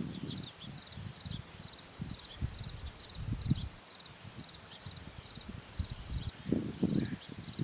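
Insect chorus trilling steadily at two high pitches, with irregular low thumps and rumbles underneath that grow louder near the end.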